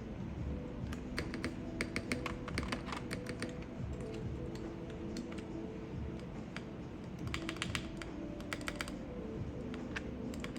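Clacking of keycaps being pressed down onto the linear Tori switches of a mechanical keyboard, in quick clusters of clicks with pauses between, over soft background music.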